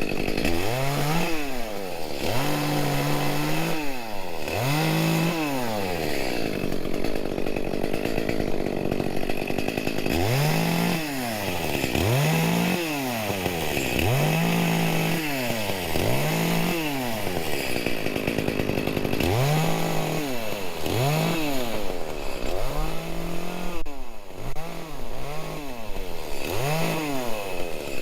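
Two-stroke chainsaw revved in repeated bursts: the engine speed climbs and drops about once a second, now and then held at full throttle for a second or so. It falls back to a steadier running sound in lulls between the clusters, around 6–10 s and 18–19 s.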